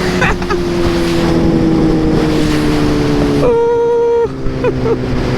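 Suzuki GSX-R 600 sport bike's inline-four engine running at speed under heavy wind noise on the microphone. About three and a half seconds in, a sharper, higher engine note stands out clearly for under a second.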